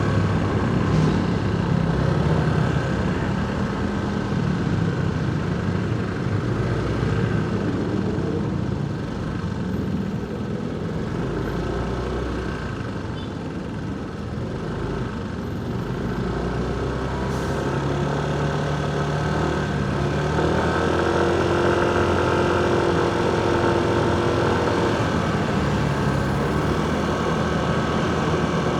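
Motorcycle engine running under way in city traffic, with road and wind noise; it eases off for a few seconds near the middle. Past the middle, the drone of another nearby engine joins for several seconds.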